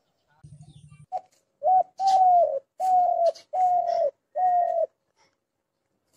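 Dove cooing: a brief low buzz, then a short note followed by a run of five slightly falling coos, evenly spaced.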